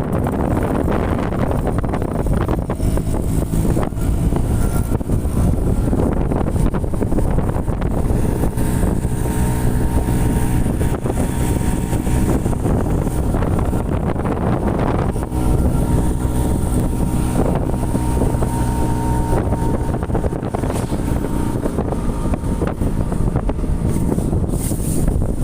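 Motorcycle engine running steadily while riding, with wind rushing over the microphone; the engine note dips briefly about fifteen seconds in.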